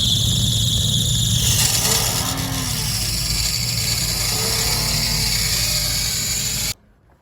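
Engine running rough, with a high squeal that fades out about a second and a half in and pitch rising and falling a few times as it revs. It is offered as the sound of an engine run on the wrong fuel. The sound cuts off abruptly about half a second before the end.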